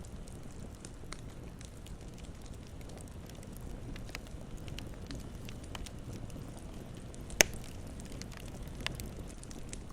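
Campfire burning with a steady low rumble and scattered crackles, and one loud, sharp pop about seven seconds in.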